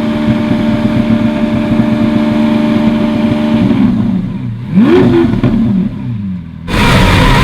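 Lamborghini Aventador SV's V12 engine held at a steady moderate rev for about four seconds, then the revs fall away, a short throttle blip rises and drops about five seconds in, and near the end a sudden louder burst of engine sound settles into a lower steady run. The revving is hesitant and uneven rather than clean.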